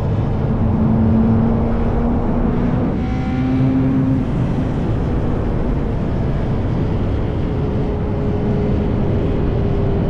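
Yamaha R1 inline-four motorcycle engine through an SC-Project exhaust, running at cruising speed under heavy wind and road noise. Its pitch climbs slowly for the first four seconds, then holds steady.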